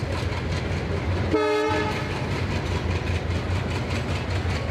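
Train running over the tracks with a steady low rumble, and one short horn blast about a second and a half in.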